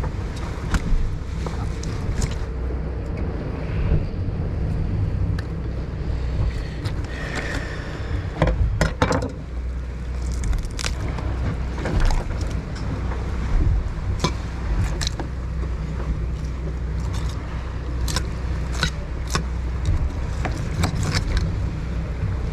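Fishing party boat's engine running steadily with a low rumble, over which come scattered sharp clicks and knocks of gear on deck.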